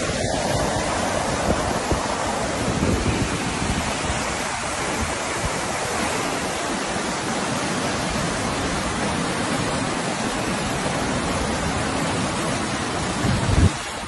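Torrential rain pouring down in a steady, even roar.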